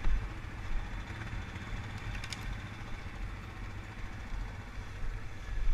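ATV engine running steadily off-road, a low rumble with a brief knock at the start and another near the end.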